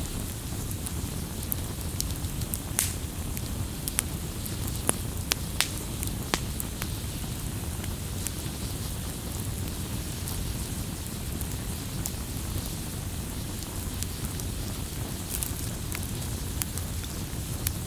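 Wood bonfire crackling: a steady low rush of burning with scattered sharp pops and snaps, several of them close together a few seconds in.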